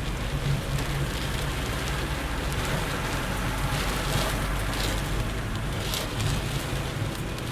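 Heavy rain on a moving car, heard from inside the cabin, with a steady low road and engine rumble beneath it.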